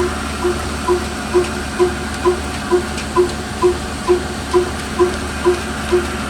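Old slow-running diesel engine driving a flour mill, running steadily with an even beat a little over twice a second over a constant hum.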